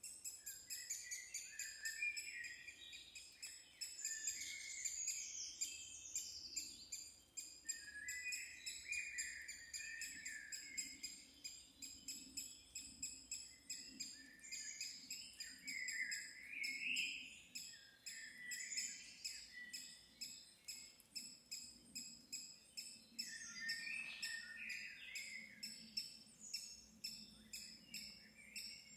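Several birds chirping and singing at once, with dense, overlapping high calls and no pause.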